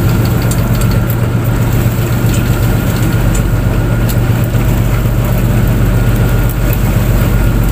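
Fishing boat's engine running steadily: a loud, even low drone.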